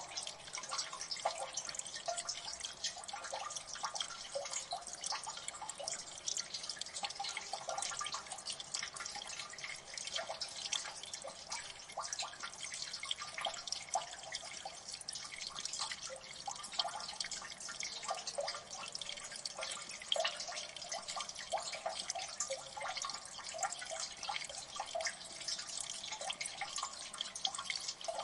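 Water dripping in a gully: many small drips plinking irregularly and rapidly over a steady trickle of running water.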